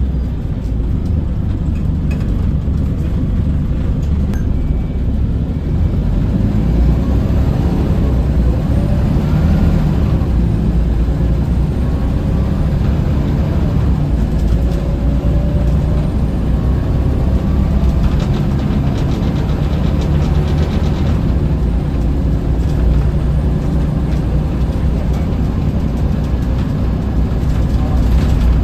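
Scania L94UB bus engine and drivetrain running steadily under way, with a deep low rumble and a faint whine that rises and falls in pitch.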